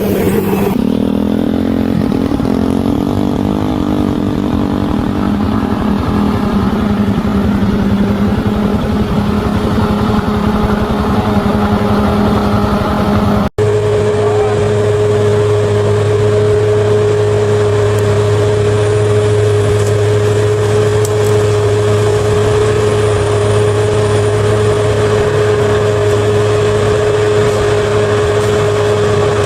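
Bulldozer's diesel engine running steadily at working speed, with a brief break about halfway through, after which the drone resumes at a steadier pitch.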